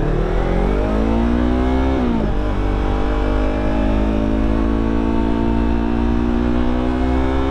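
Motorcycle engine accelerating, its pitch climbing, dropping briefly with an upshift about two seconds in, then rising slowly again in the next gear, over a steady low rumble. It is picked up by a GoPro Hero 10 Black's microphone at speed.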